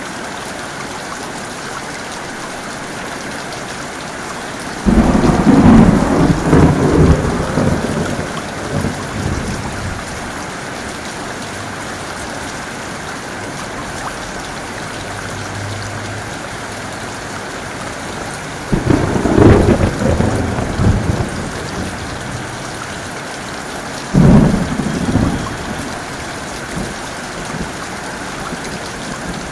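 Steady heavy rain with three sudden claps of thunder. The first comes about five seconds in and rumbles away over several seconds. A second comes about two-thirds of the way through, and a shorter third follows soon after.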